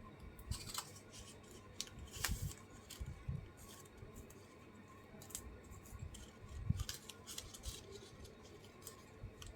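Light clicks, taps and soft thumps of paper and small craft tools being handled on a desk, spaced irregularly with a few louder knocks in the first half.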